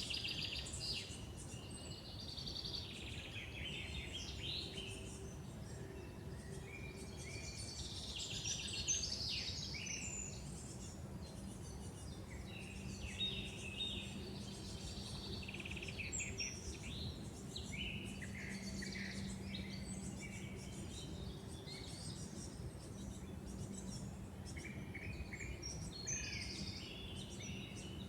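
Songbirds singing in woodland: many short chirps, trills and warbled phrases from several birds, one after another, over a soft steady background hum.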